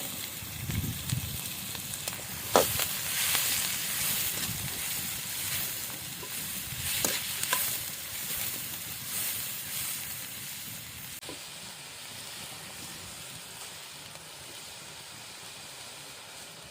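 Chopped onions sizzling in hot oil in a pan while being stirred, with a few sharp knocks of the spoon against the pan. The sizzle grows somewhat quieter in the second half.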